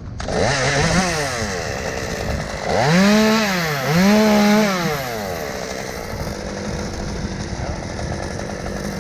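Chainsaw revving: the engine pitch climbs and falls once. It then revs hard twice in quick succession, each rev held for a moment, and settles back to steady running at a lower speed.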